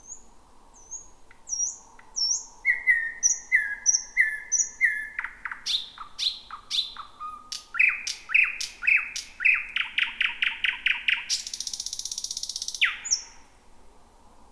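Thrush nightingale singing one full song phrase. It opens with soft, high, thin notes, moves into runs of repeated notes and loud sharp clacks, speeds into a fast trill, and ends near the end in a harsh rasping rattle.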